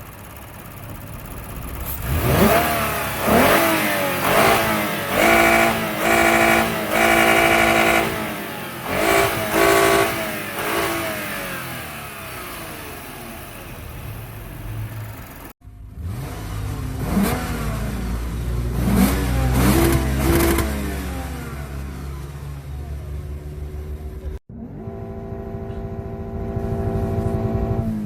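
Toyota Crown Athlete (210 series) 3.5 L V6 with stock exhaust, revved again and again in short throttle blips whose pitch climbs and falls back. After a sudden cut it revs a few more times over a deeper exhaust rumble. After a second cut it settles into a steadier run.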